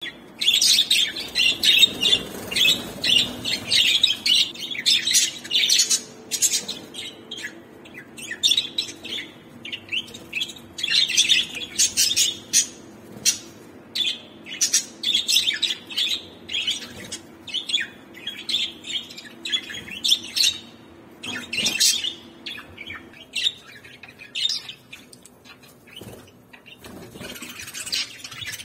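Budgerigars chirping and chattering: many quick, high calls close together, with brief pauses now and then.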